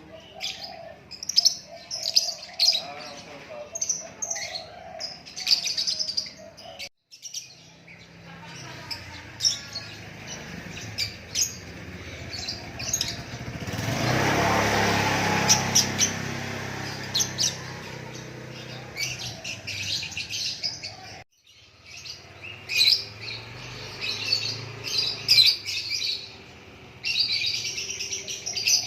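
Lakbet songbird singing and chirping: quick runs of short, high whistled notes, with brief pauses. Around halfway a rushing noise and a low hum swell up and fade.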